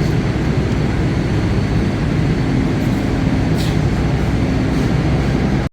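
Passenger train running: a loud, steady rumble and rushing noise, with a faint steady hum over part of it.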